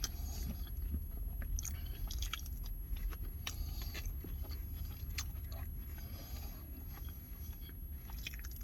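A person chewing and eating oxtail poutine with fries close to the microphone: many small mouth clicks and smacks over a steady low hum.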